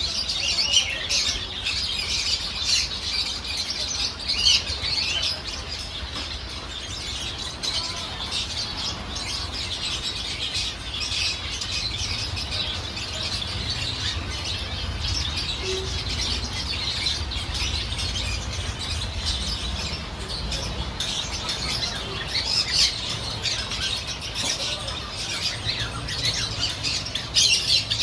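Many small pet birds chirping together in a continuous, busy chatter of short high chirps, over a steady low rumble.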